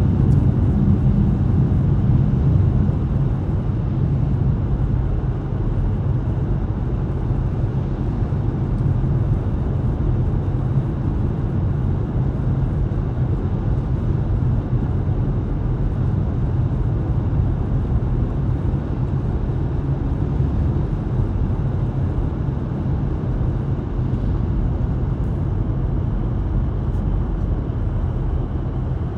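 Steady low rumble of a car driving on a snow-covered road: engine and tyre noise, even throughout.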